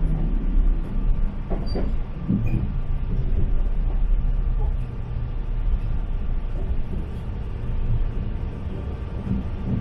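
Diesel local train running along the line: a steady low rumble, with a few short knocks and clicks from about one and a half to two and a half seconds in.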